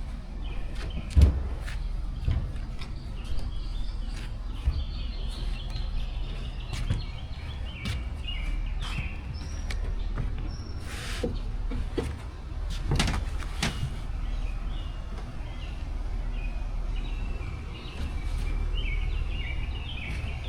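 Small birds chirping steadily in the background, with a few scattered knocks and clicks, the loudest about a second in and around thirteen seconds in, over a low steady rumble.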